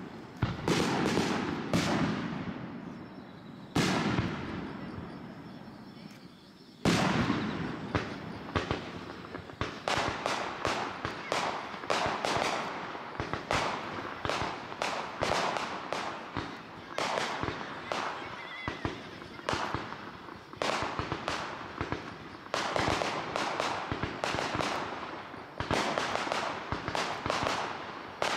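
Aerial fireworks display: a few single loud bangs, each ringing out for a second or two, then after about ten seconds a rapid run of many bangs and pops several per second.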